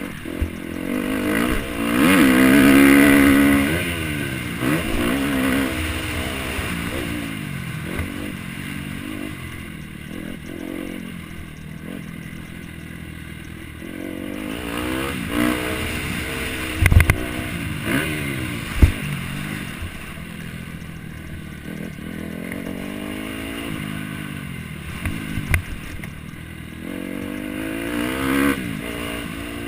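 MX1 motocross bike engine revving hard and dropping back over and over, its pitch climbing and falling with each burst of throttle, with a couple of sharp knocks a little past the middle.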